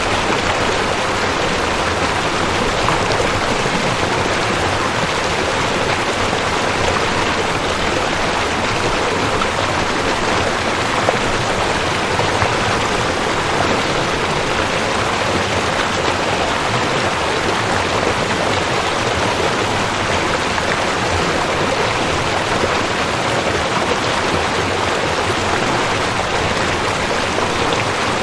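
Rushing creek: water running steadily over rocks, a constant dense splashing rush.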